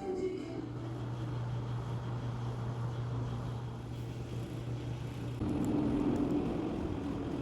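A vehicle running, heard as a steady low drone. About five seconds in it changes to a louder, rougher rumble.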